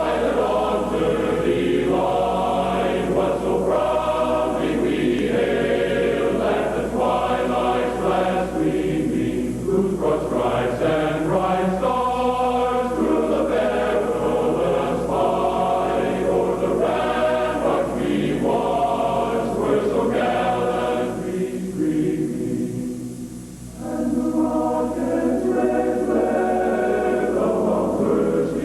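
A choir singing a slow anthem with accompaniment, the national anthem played as a station sign-off. The singing eases off briefly near the end, then comes back.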